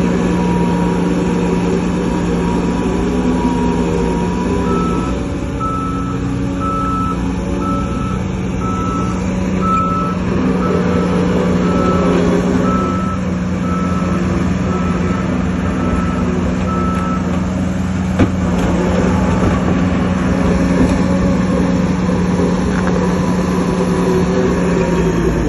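Heavy diesel earthmoving machinery running steadily, with a reversing alarm beeping about once a second for some twelve seconds, starting a few seconds in. A single sharp knock comes about two-thirds of the way through.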